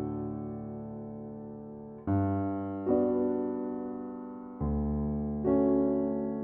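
Soft background piano music: slow chords struck every second or two, each left to ring and fade.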